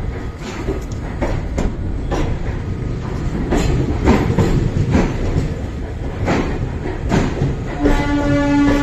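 A train running, its wheels knocking over rail joints in a clickety-clack. Near the end its horn starts in one steady blast.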